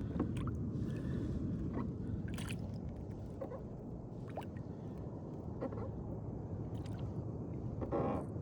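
Water sloshing and lapping against a kayak's hull, a steady low rumble with a few faint clicks.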